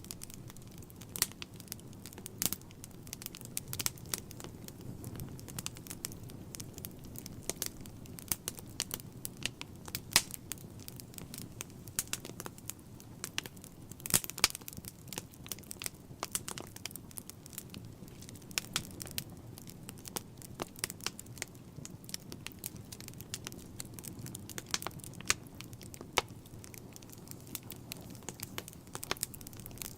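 Wood fire burning in a fireplace: a steady low rush of flame with irregular crackles and sharp pops, a few of them much louder than the rest.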